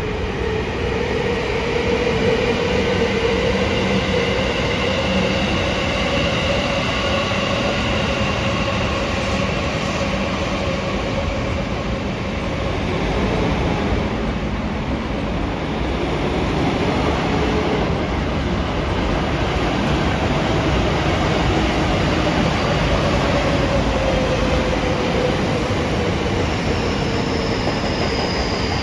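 Train running past close by: a steady rumble of wheels on rail, with whining tones that slowly rise and fall in pitch and a thin high whine near the end.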